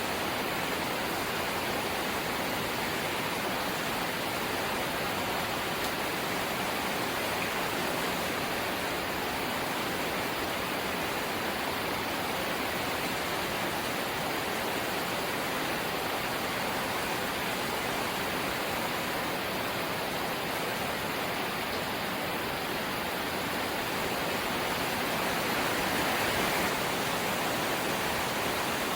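Rain falling on a corrugated zinc roof: a steady, dense hiss that swells a little near the end.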